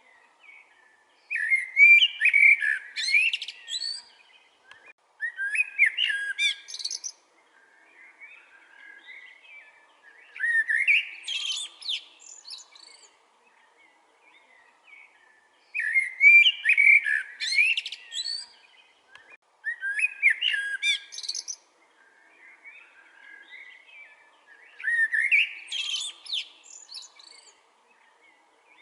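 Common blackbird singing: six separate song phrases a few seconds apart, each a low fluty warble that ends in a squeaky high twitter. Fainter bird calls come between the phrases.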